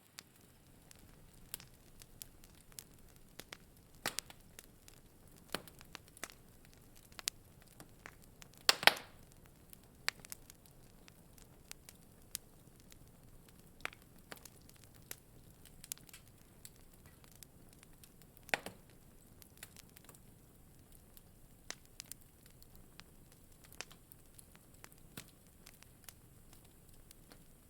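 Wood fire crackling in a fireplace: scattered sharp pops and snaps over a faint steady hiss, with the loudest pops about nine seconds in and again just before nineteen seconds.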